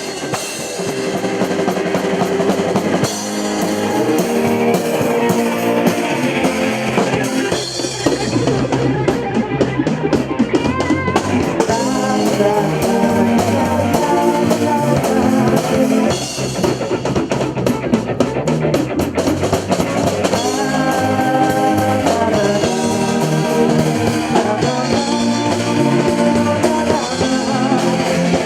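Live rock band playing a song: drum kit, electric guitar, bass and keyboard, with sung vocals.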